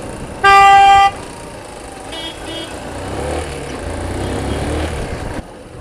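A vehicle horn honks loudly once for about half a second, followed about a second later by two short, faint toots. Traffic noise with an engine revving up builds over the next few seconds and cuts off suddenly near the end.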